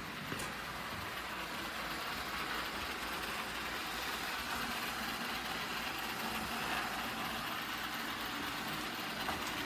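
eufy L60 robot vacuum running, a steady whirring hiss from its suction motor and brushes.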